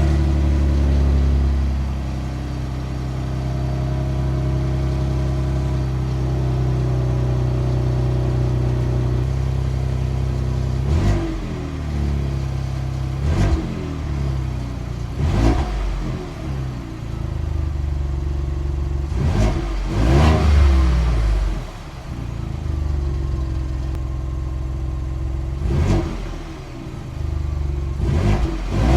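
Ford Bronco's engine through its factory stock exhaust, idling steadily for about ten seconds and then revved in several short blips, each rising and falling quickly, as a sound test of the stock exhaust.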